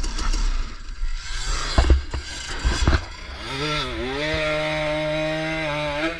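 Two-stroke KTM 300 dirt bike engine at high revs, with a few sharp knocks about two seconds in. The engine note dips briefly, then holds steady at high revs under load.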